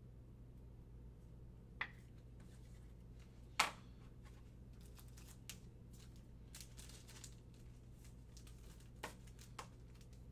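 Trading cards and foil pack wrappers being handled: scattered crinkles and sharp taps, the loudest about three and a half seconds in, over a faint steady hum.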